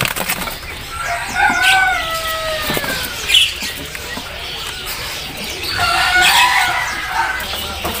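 A caged bird calling twice, each a long call of about two seconds that falls slowly in pitch, the first about a second in and the second near six seconds, with short knocks and rustles from the cages between.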